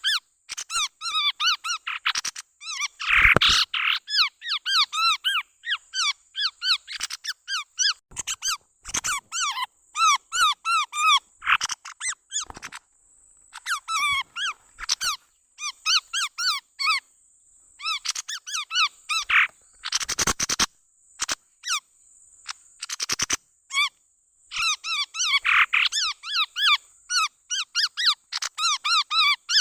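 Chestnut-rumped babblers calling: rapid runs of short, squeaky up-and-down notes in chattering bursts with brief pauses, as used to lure the bird. A few sharp clicks cut in, and a faint steady high hiss lies underneath.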